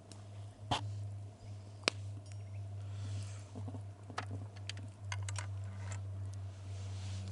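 Wood fire crackling: scattered sharp pops and snaps, the loudest about a second and two seconds in, with a quick run of them around the middle, over a steady low hum.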